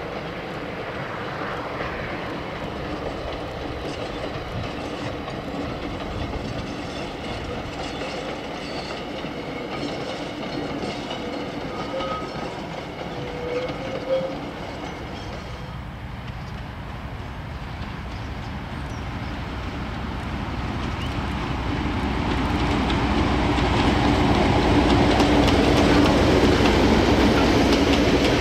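NZR DE class diesel-electric locomotive working a train of passenger carriages, first at a distance as a steady rumble. In the last several seconds it grows louder as the carriages roll close by, wheels clicking over the rail joints.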